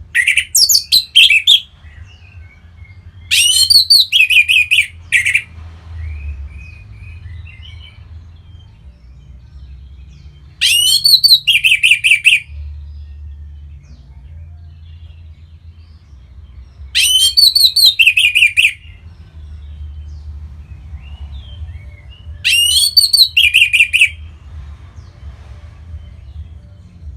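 Orange-headed thrush singing in short, loud phrases, five of them a few seconds apart. Each phrase is a quick run of high notes that drops into lower, warbling notes. A low, steady hum runs underneath.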